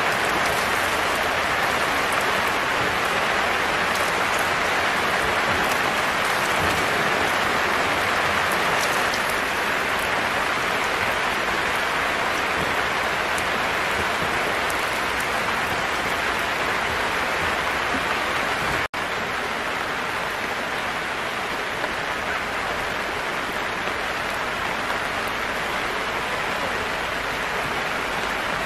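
Steady rain falling on a silnylon tarp overhead, an even patter with water running off its edge. The sound breaks off for an instant about two-thirds of the way through.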